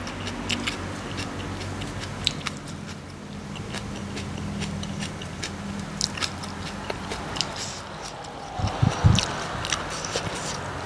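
A person chewing a mouthful of spicy young-jackfruit salad (sup khanun) with wet clicks and smacks of the mouth. A steady low vehicle engine hum runs underneath, and a couple of louder low muffled sounds come about nine seconds in.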